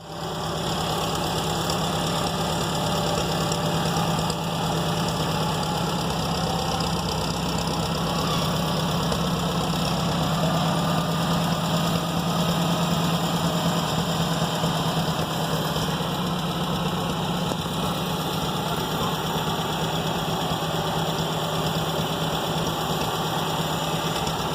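Tractor engine running steadily at a constant speed, a continuous low hum with no revving.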